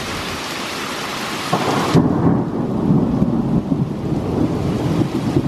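Rain falling in a thunderstorm, with a long, low rolling rumble of thunder setting in about a second and a half in.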